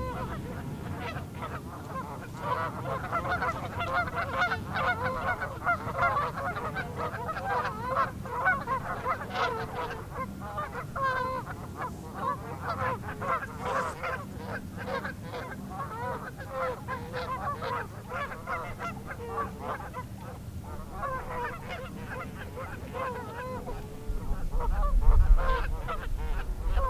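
A flock of large birds calling over one another in a continuous chorus of short, overlapping calls, thinning briefly about two-thirds of the way through. A low rumble near the end is the loudest moment.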